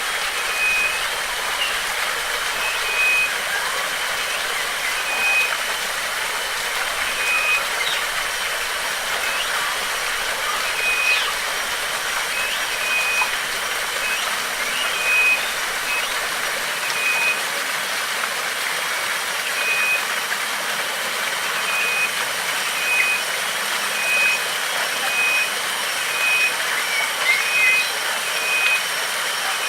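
Steady rushing of flowing water, over which a bird repeats a short, high, even call about once a second, with a few other faint chirps.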